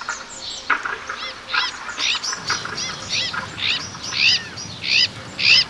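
Azure-winged magpies calling: a rapid series of short, arched calls, about two a second, growing louder toward the end.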